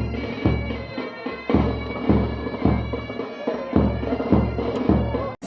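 Military pipe band playing: bagpipes sounding a steady melody over their drones, with a bass drum beating about twice a second. The sound drops out for an instant near the end.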